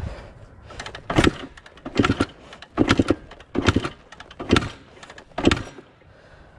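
1979 Yamaha IT 250's two-stroke single being kick-started: six kicks about one a second, each turning the engine over with a short clatter, without it catching and running.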